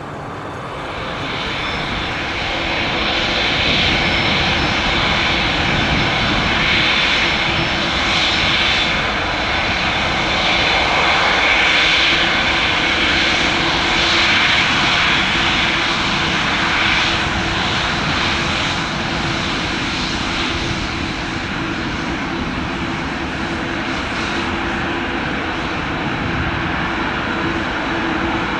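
Boeing 787-10 taxiing past with its turbofan engines at taxi power: a steady jet rush and whine over a low hum, swelling over the first few seconds, loudest in the middle, then easing slightly.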